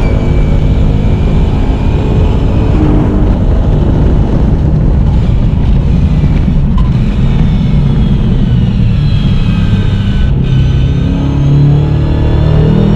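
Holden Commodore VF's V8 engine under hard acceleration, heard inside the cabin. The revs climb and then break off briefly as the sequential gearbox is flat-shifted, most clearly about ten seconds in.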